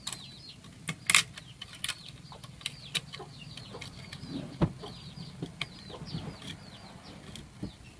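Many short, high falling chirps from birds, repeated rapidly throughout, over scattered sharp clicks and knocks.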